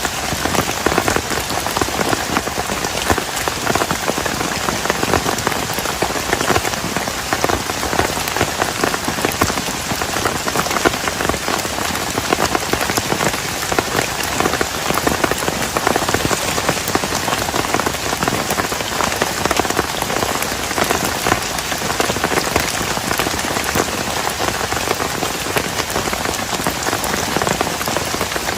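Heavy rain falling steadily, a dense mass of individual drops striking a nearby surface without a break.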